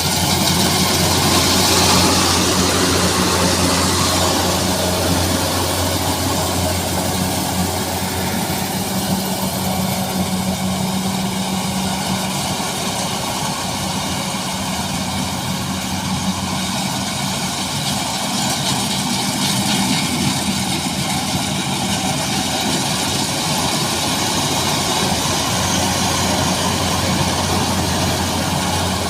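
Combine harvester engine running steadily while harvesting rice, a constant low drone under a continuous hiss.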